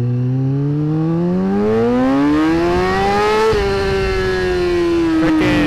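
Yamaha R6 inline-four sport bike engine accelerating hard, its revs climbing steadily for about three and a half seconds, then easing off with the pitch falling slowly as the throttle is rolled back.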